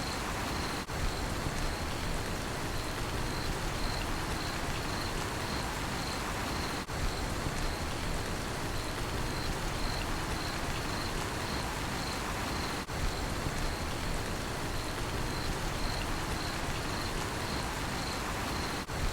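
Steady rainfall with crickets chirping in a fast, even rhythm, the level dipping briefly about every six seconds.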